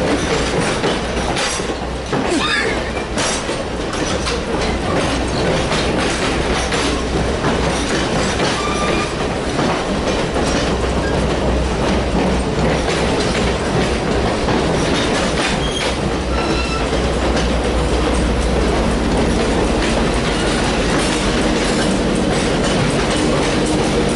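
Train rolling along the track, its wheels clicking over rail joints with a few brief high squeals, over a steady low engine drone.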